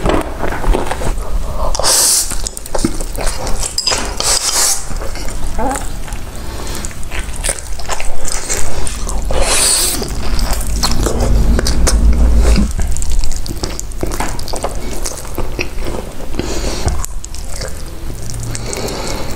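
Close-miked eating: wet chewing and mouth sounds with clicks of cutlery against a dish, and a few louder crunchy bites.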